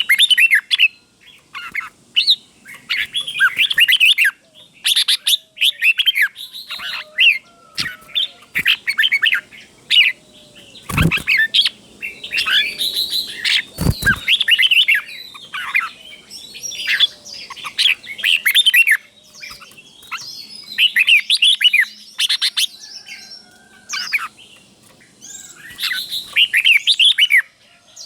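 Red-whiskered bulbul singing short, bright, quickly sweeping phrases over and over, many of them doubled in pairs. Two dull thumps come near the middle, about three seconds apart.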